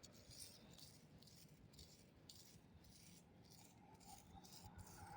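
Near silence: faint outdoor background with a few very faint ticks.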